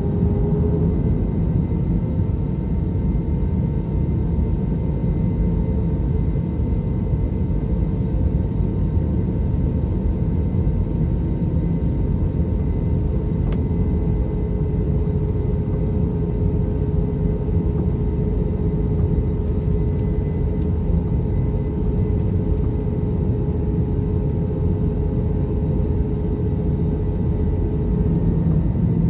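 Cabin sound of an Airbus A321 with CFM56 engines: a steady engine whine over a low rumble as the jet rolls onto the runway and starts a rolling takeoff, still short of full takeoff power.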